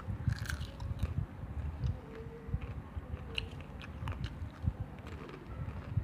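Close-up chewing and biting of crispy fried chicken: a run of crunches and wet mouth clicks.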